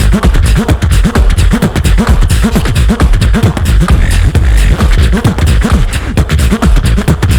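Two-person live beatbox performance: vocal bass and kick, snare and hi-hat sounds in a fast, steady beat, heavily amplified.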